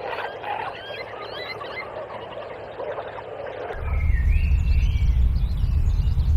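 Wild birds chirping and calling over outdoor ambience. Nearly four seconds in, the sound cuts abruptly to a louder low rumble with a few bird calls above it.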